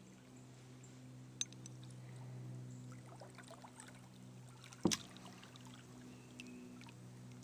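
Kayak paddling: water dripping and trickling off the paddle with small splashes, and a sharp knock about five seconds in, with a lighter click earlier.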